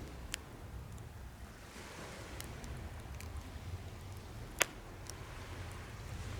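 Wood fire burning in a homemade fire pit, with scattered sharp crackles and pops over a low steady rumble; the loudest pop comes about four and a half seconds in.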